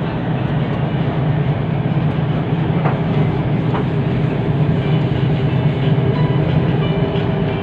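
Metro train running at speed, heard from inside the carriage: a steady low rumble with a faint whine from the motors.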